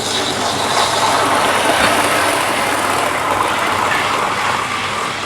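Model train running along the layout's track, its motor and wheels sounding on the rails. It gets a little louder about a second in and drops away near the end as it passes.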